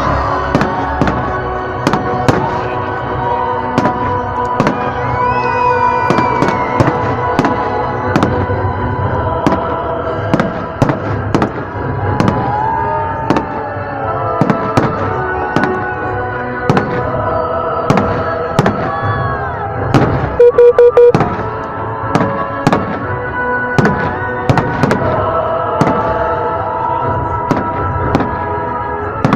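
Fireworks salute bursting in a rapid, irregular string of bangs, several a second, with music playing alongside. About two-thirds of the way through comes a quick run of very loud pulses.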